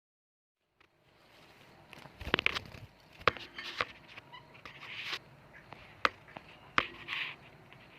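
Budgerigars squawking and chattering in short harsh calls, with several sharp clicks among them.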